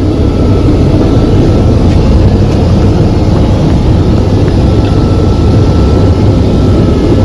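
Steady roar of a Boeing 787 cabin in flight, the engine and airflow noise heaviest in the low range, with a faint steady whine above it.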